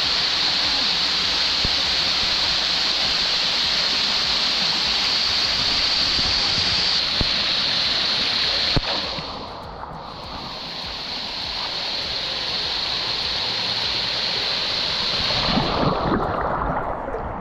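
Waterfall water pouring and splashing close by, a steady loud rush that dips briefly about nine seconds in and then builds back.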